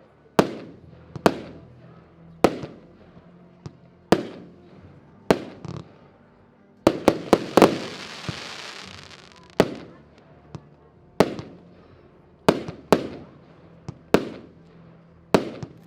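Firework battery, a Diamond Revolution cake, firing shot after shot: sharp bangs about once every second or so, each with a ringing tail. About seven seconds in, a quick cluster of shots is followed by about two seconds of hiss.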